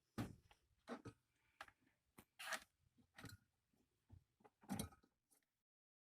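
A series of faint, irregular clicks, knocks and short scrapes, like small objects being handled, about a dozen over five seconds.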